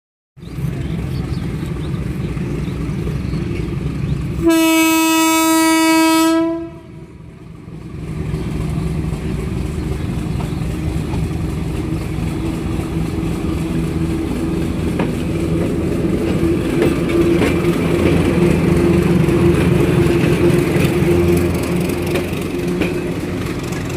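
A train horn sounds one long blast of about two seconds, a few seconds in, over the low rumble of an approaching train. The rumble then grows steadily louder as the train comes closer.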